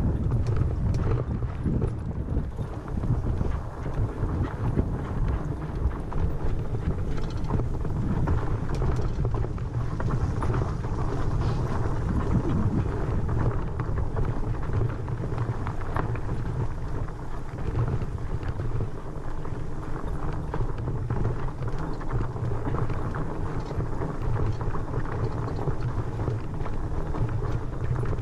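Fat-tire tandem mountain bike rolling over a rough trail: a steady rumble of wind on the microphone with constant small irregular rattles and knocks from the tyres and frame on the bumpy ground.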